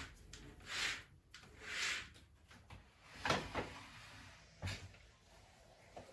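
Household tidying noises: two soft swishes in the first two seconds, then a sharp knock with a short clatter a little past the middle and a duller thump near the end, like things being moved and put away.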